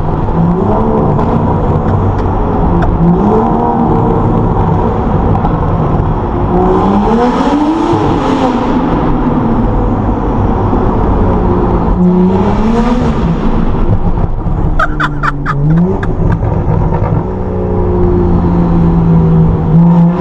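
Straight-piped, tuned BMW M135i's 3-litre turbocharged straight-six revving hard, its pitch climbing and dropping several times through the gears. About 15 seconds in there is a rapid run of sharp crackles as the revs fall.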